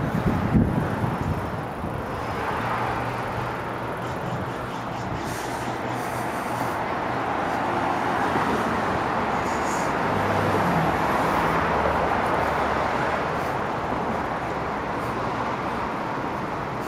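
Road traffic rushing past, heard from a moving bicycle, with a vehicle swelling louder and fading about halfway through. Low rumbles from wind and bumps on the handlebar-mounted mic come in the first second.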